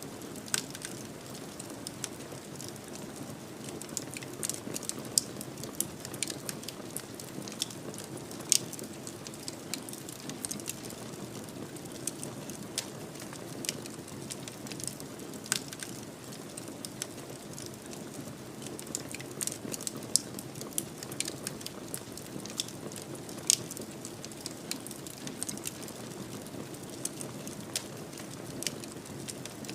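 Wood fire burning in a fireplace: a steady low rumble of flames with sharp, irregular crackles and pops scattered throughout.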